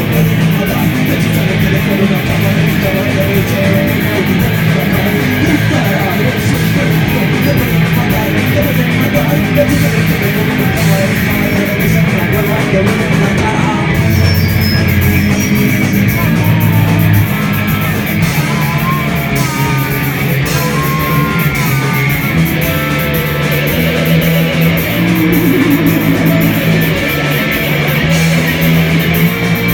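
Rock band playing an instrumental passage in rehearsal, with electric guitar and bass; guitar notes bend up and down in the second half.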